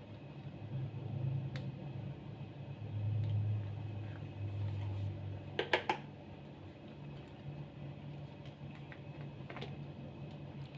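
Low steady hum with a few sharp clicks and taps, a quick cluster of them about halfway through: handling of the washing machine's control-panel buttons and multimeter probes while each button is tested.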